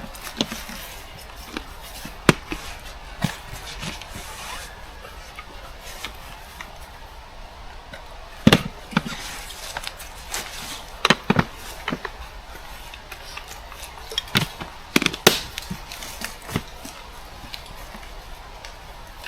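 Scattered knocks, clacks and rubbing at irregular intervals, like things being handled and set down, with a louder knock a little before halfway and a cluster of sharp knocks later on.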